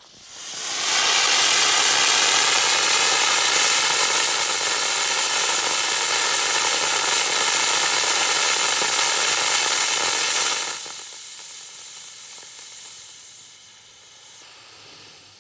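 Homemade sugar and potassium nitrate rocket motor (rocket candy) burning on a static test: it builds up over the first second into a loud, steady hiss. After about ten seconds the main burn ends, and the sound drops to a quieter hiss that fades away.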